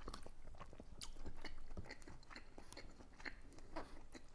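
A person chewing food close to the microphone: irregular small wet clicks and crunches of the mouth.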